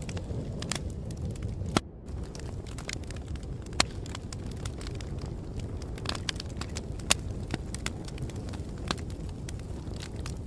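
Wood fire crackling: irregular sharp pops and snaps over a steady low rumble, with the loudest pops just before two seconds in, near four seconds and near seven seconds.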